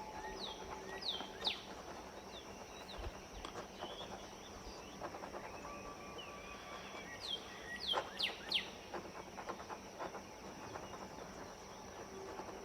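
Birds chirping in the background: short calls that drop in pitch, heard in small clusters of two or three, over a faint steady high-pitched hum.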